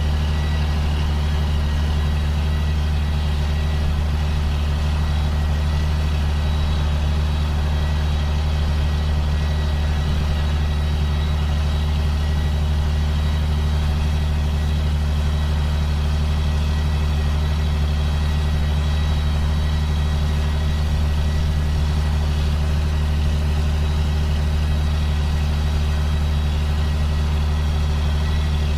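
2005 John Deere sprayer's diesel engine running steadily as it drives down corn rows spraying, a constant low drone with a faint steady high whine over it.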